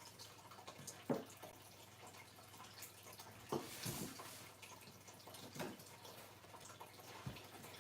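A few faint, scattered clicks and light knocks as desk assembly parts are handled, over a low steady hiss.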